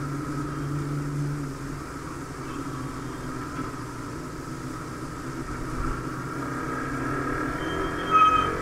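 Motorcycle engine running steadily while riding through city traffic, with road and wind noise. A brief, loud high-pitched tone sounds near the end.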